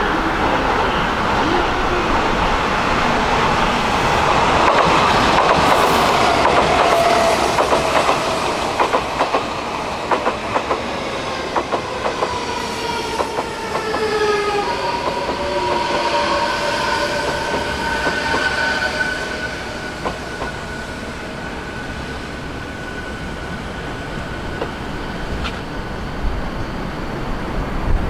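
Odakyu 4000 series electric commuter train passing. Its rumble builds to a peak a few seconds in, with wheels clicking over rail joints. Its traction motors give off a whine of several thin tones that lingers as the train runs off into the distance.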